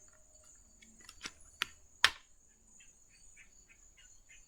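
Steady high-pitched insect-like trill, most likely crickets, with four sharp clicks or taps between about one and two seconds in.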